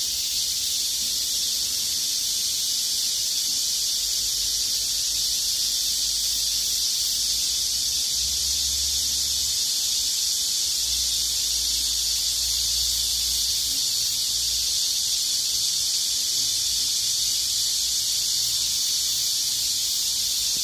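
A dense chorus of many cicadas buzzing together in a steady, unbroken, high-pitched drone.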